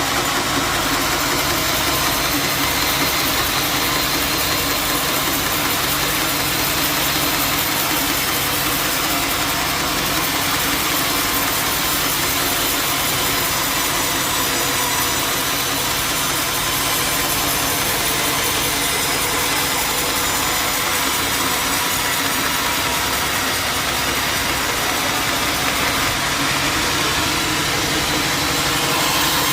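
Band sawmill running steadily, a constant machine hum with a noisy whine over it, between or at the start of cuts through a jackfruit log. It grows slightly louder and brighter near the end.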